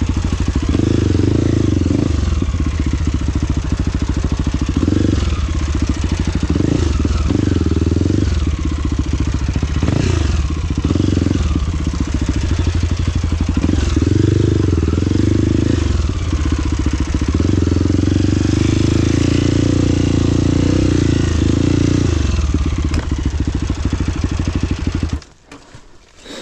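Trail motorcycle engine running under load, its pitch rising and falling as it revs up and down, then cutting off suddenly near the end.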